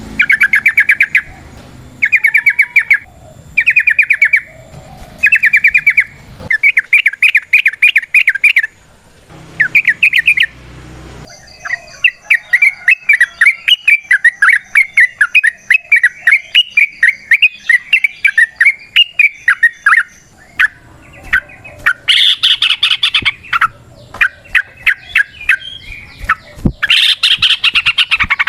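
Yellow-vented bulbul (trucukan) singing: short bursts of rapid, bubbling notes repeated about every second and a half, then a long unbroken chattering run (the 'ropel' song) for about eight seconds, then louder, shriller bursts near the end.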